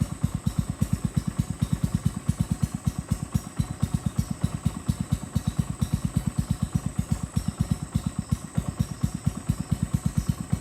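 A small boat engine running steadily, a fast, even low putter of about seven or eight beats a second.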